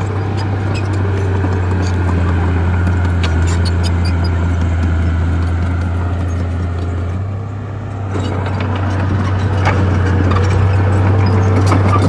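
Bulldozer's diesel engine running steadily under load, with a rattle of small metallic clicks and knocks from the working machine. The engine eases off briefly about seven seconds in, then picks up again.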